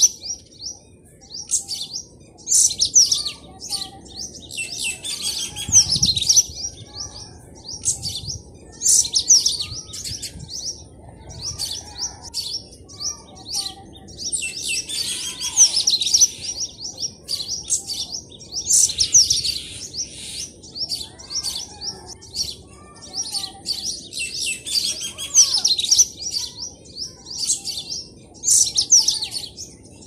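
Birds chirping in repeated bursts of rapid, high-pitched twittering, one burst every two or three seconds.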